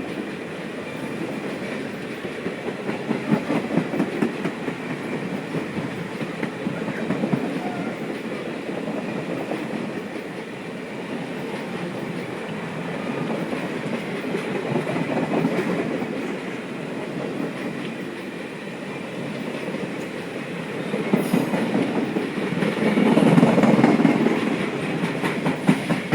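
Ringling Bros. circus train cars rolling past close by: a steady clickety-clack of wheels over rail joints with a rumble, swelling louder near the end.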